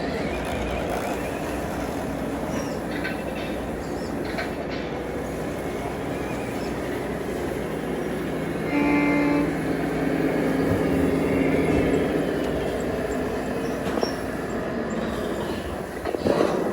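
Radio-controlled trucks running with a steady mechanical noise, and a short horn blast about nine seconds in, followed by a few seconds of lower held tones.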